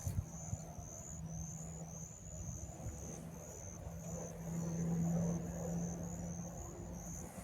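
A steady low engine hum over a rumble, with a high, rapid chirping repeating about three times a second.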